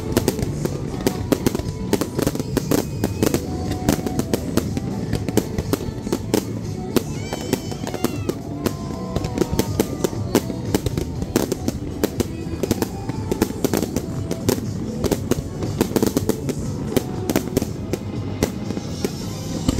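Aerial fireworks display: a dense, unbroken run of sharp bangs and crackles as shells burst overhead, with music playing underneath.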